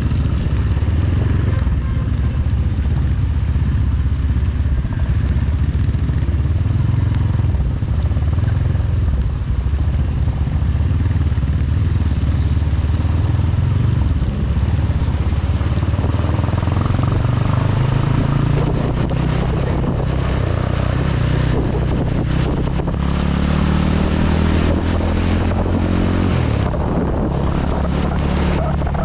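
Honda CB 250 motorcycle engine running on the move, over a steady hiss of rain and wind. From about two-thirds of the way in, the engine pitch climbs steadily as it accelerates, drops suddenly near the end at a gear change, then holds steady.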